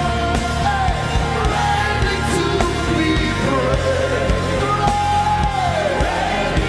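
Live gospel worship music: a full band with drums and held, sliding sung or played lines.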